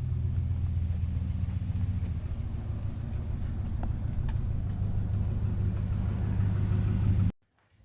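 Truck engine idling steadily with a low rumble, the engine not fully cold; the sound cuts off suddenly near the end.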